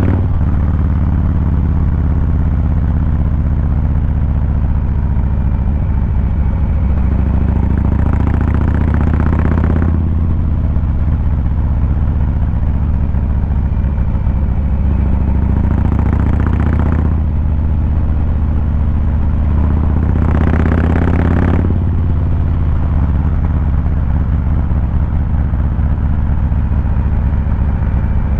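Harley-Davidson Fat Boy 114's Milwaukee-Eight V-twin running under way with a steady, deep exhaust note. Three short stretches of added hissing noise rise over it about a third of the way in, past the middle, and about three quarters through.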